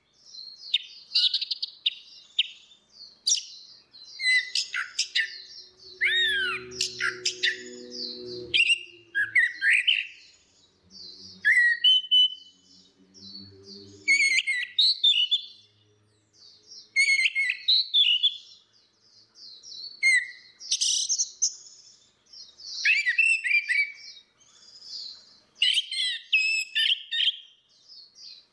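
Orange-headed thrush song: a run of quick, varied phrases of whistles, glides and chatter, delivered in bursts with short pauses between them.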